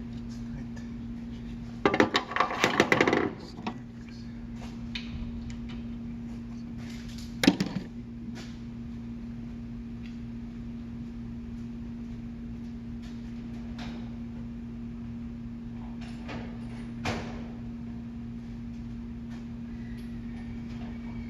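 Metal clattering and clanking of hand tools and brake parts: a burst of rapid clatter, then one loud clank and a lighter knock later, over a steady electrical hum.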